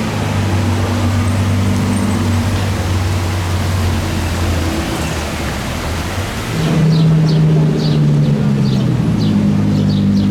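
Supercar engines running at low revs in street traffic, a deep steady engine note. About two-thirds of the way through, the sound changes to another engine's louder note.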